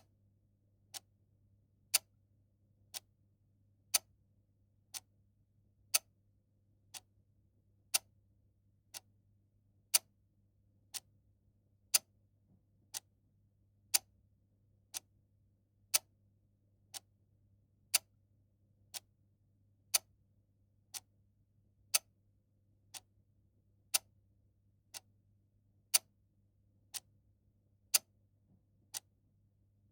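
Mechanical clock ticking once a second in an even tick-tock, every other tick louder.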